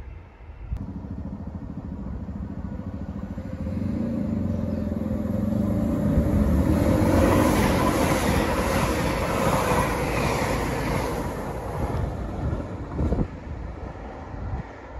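TransPennine Express passenger train passing close along a station platform: a steady engine hum with wheel and rail rumble that builds to its loudest midway and then fades. The sound breaks off abruptly near the end.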